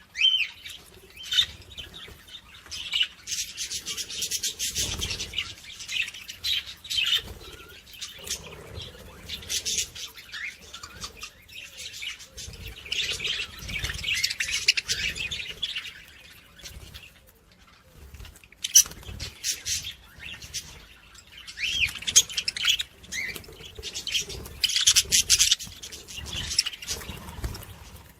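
Many small birds chirping and twittering together in a dense, busy chorus, with a brief lull about two-thirds of the way through.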